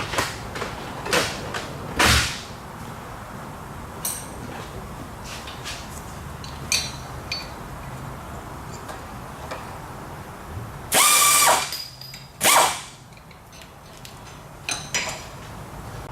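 A power drill and hand tools working on broken exhaust manifold bolts: scattered metallic clicks and knocks, and two short bursts from the drill about two thirds of the way in, the first the loudest.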